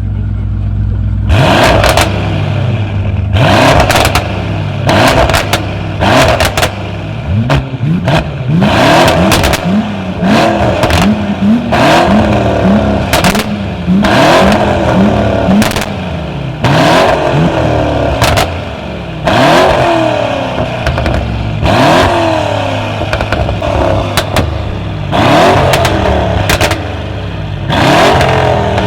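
A tuned car's engine revved hard in quick repeated blips, about every second or two, the pitch falling back toward idle after each. It starts from a steady idle.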